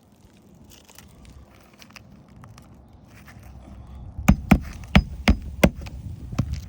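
Hammer driving nails into asphalt roof shingles: about six sharp strikes in quick succession in the last third, after quieter rustling and scraping.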